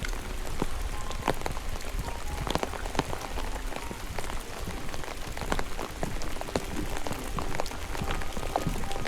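Steady rain, with many separate drops ticking irregularly over a low rumble.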